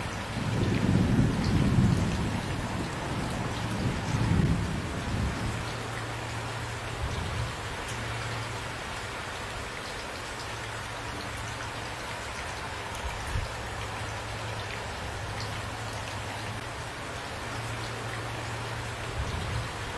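Steady rain falling, with a low rumble of thunder that swells twice, about one and four seconds in, then dies away under the rain.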